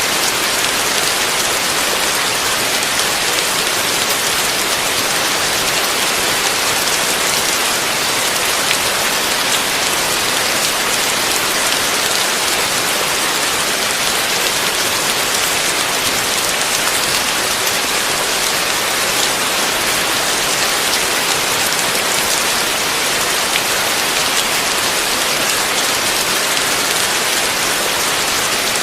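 Heavy rain falling steadily: a dense, even hiss with many small drop ticks, and no thunder.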